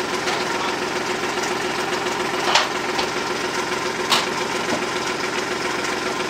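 Gator utility vehicle's engine idling steadily, with two sharp knocks about two and a half and four seconds in.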